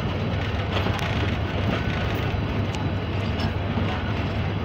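Passenger train running on the line: a steady low rumble of the diesel-electric locomotive and wheels on rails, with a few light clicks.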